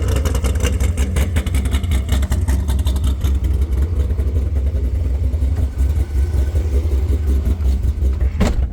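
C5 Corvette's V8 engine and road noise as the car is driven on a test drive after a transmission install, a steady low rumble.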